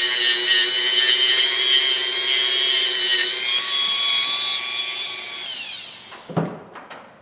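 A small high-speed power tool runs with a steady high-pitched whine, then winds down, its pitch falling until it stops about six seconds in. A few short knocks follow.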